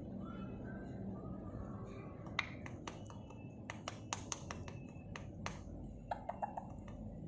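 Faint, scattered sharp clicks and taps, with a quick run of four about six seconds in.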